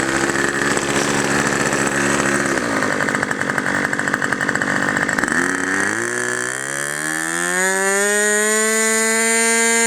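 Two-stroke glow engine (Super Tiger .51) of a Thunder Tiger Champion 45L RC plane, running at a low steady speed and then throttled up, its pitch rising over about three seconds to a high, steady full-throttle whine.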